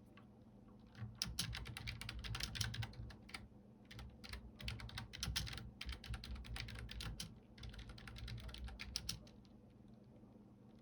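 Typing on a computer keyboard: quick runs of key clicks that start about a second in, break off briefly twice, and stop about a second before the end.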